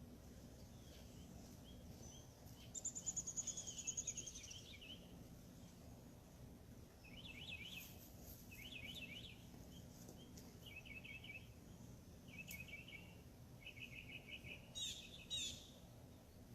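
Several wild birds calling and singing faintly over a low steady background hum. A fast descending trill comes about three seconds in, then groups of short chirps and trills, and two quick sweeping calls near the end.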